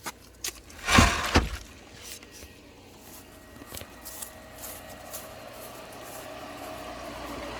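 Two sharp thumps about a second in, then light footsteps and the steady hum of a running pool pump motor that grows gradually louder as it is approached.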